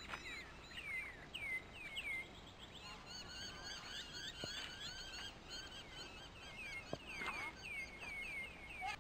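Birds chirping: many short, high chirps that sweep downward in pitch, overlapping and repeating throughout, with a couple of faint clicks.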